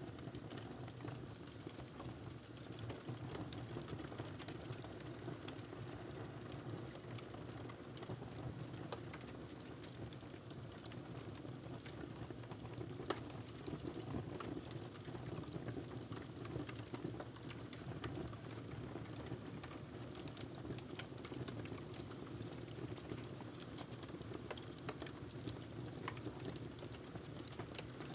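Wood fire crackling in a fireplace: a steady low rumble of flame under many small irregular pops and snaps, with one sharper pop about halfway through.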